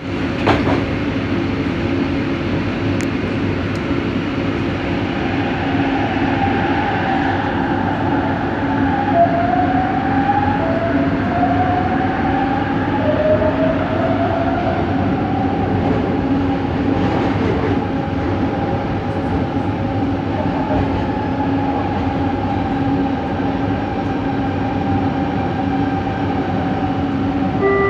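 LRT train car running, heard from inside the car: a steady rumble with a constant hum, and a run of rising whines from the traction motors from about 7 to 16 seconds in as the train picks up speed. This is Set 70's coach 4, whose unusual motor noise the rider traced to this car.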